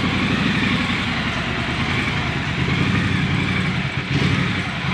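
Motorcycle engine idling steadily with a rough, even rumble.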